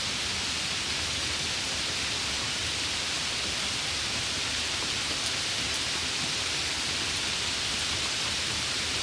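Steady rain, an even hiss with a few faint drop ticks and no change in level.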